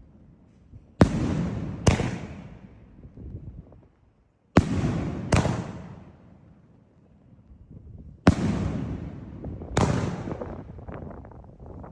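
Vanitha 'Quantum' sky-shot firework shells bursting in the air: six sharp bangs in three pairs, each trailing off in a rolling echo, with faint crackling after the last one.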